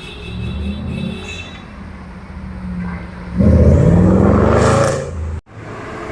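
A car engine running low, then about three and a half seconds in revving hard as it accelerates, its pitch rising, loud for about a second and a half before it cuts off suddenly.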